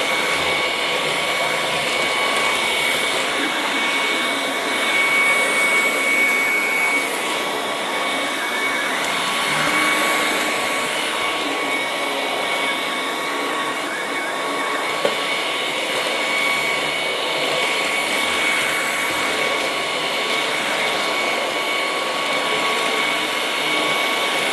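Ryobi 18-volt brushless cordless vacuum running continuously: a steady rush of air with a constant high-pitched motor whine, its loudness wavering slightly as it is moved about.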